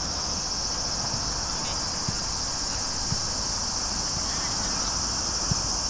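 Insects droning steadily at a high pitch, over low outdoor rumble, with a few faint thuds.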